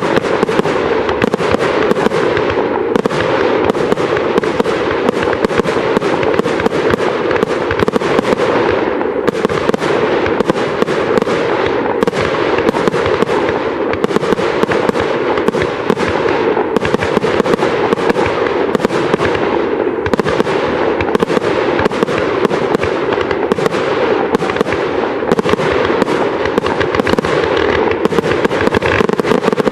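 Professional fireworks display: aerial shells bursting in a rapid, unbroken barrage of bangs, with a steady hum underneath.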